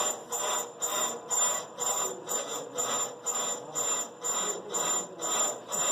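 Brake lathe running with a brake drum mounted and turning, giving a rhythmic rubbing scrape about three times a second over a steady high whine.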